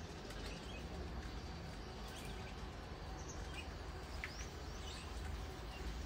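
Scattered short bird chirps and calls, including a few quick sweeping notes about four seconds in, over a steady low background rumble.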